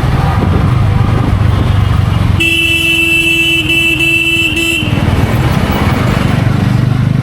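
TVS Ronin's single-cylinder engine running on the move, with a vehicle horn blown in the middle for about two and a half seconds. The horn is a steady blare that drowns out the engine until it stops.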